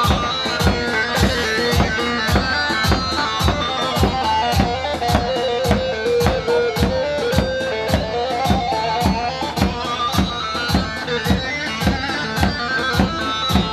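Instrumental halay dance music: a fast, ornamented melody line over a steady, even drum beat of about two beats a second.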